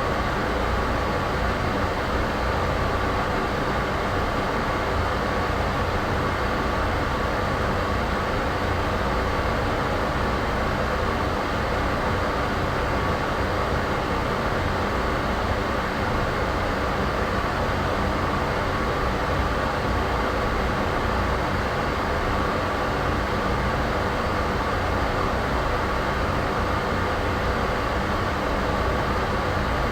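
Steady, unchanging white-noise ambience, heavy in the deep rumble, with a faint steady tone running through it.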